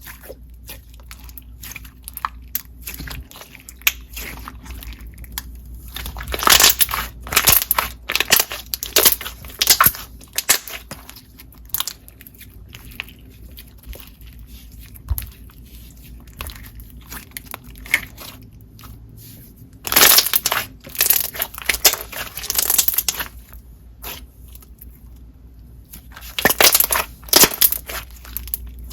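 Glossy clear slime being stretched, folded and pressed by hand, making sharp clicks and bubble pops. These come in several bursts, about six to ten seconds in, around twenty seconds in, and again near the end.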